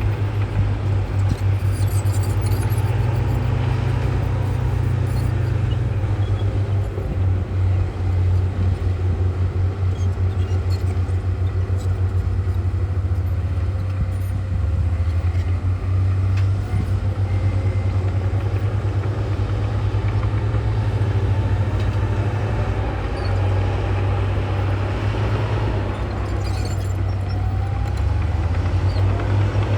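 Heavy earthmoving machine's diesel engine running steadily under work, a deep continuous drone whose pitch drifts up and down slightly in the second half.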